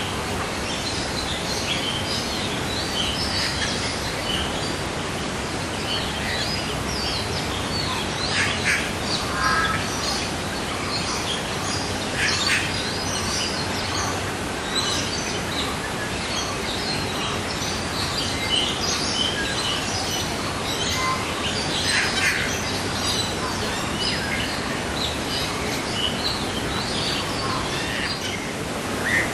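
Several small birds chirping and calling in short, irregular notes throughout, over a steady background hiss.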